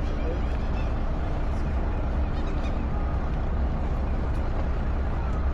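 Tour boat's engine idling steadily at the dock, a constant low rumble.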